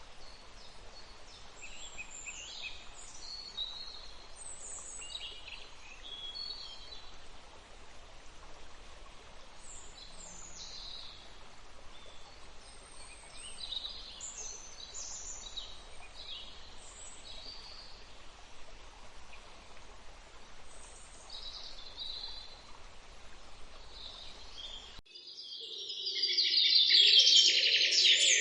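Birds chirping and calling, short high notes scattered over a faint steady outdoor background. Near the end the sound changes abruptly to louder, denser chirping.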